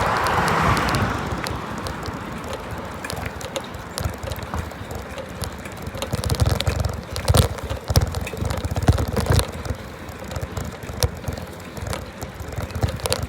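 Riding a bicycle: wind rushes over the microphone at first and fades after about a second, then comes a low rumble with many sharp clicks and rattles from the moving bike.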